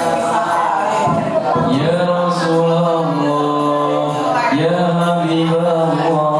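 A group of men's voices singing in unison: a chanted melody of long held notes that slide from one pitch to the next, with no drum beat audible.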